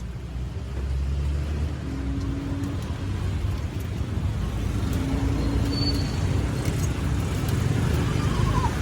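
Street traffic noise: a steady low rumble of vehicle engines passing by, with a few small clicks near the end.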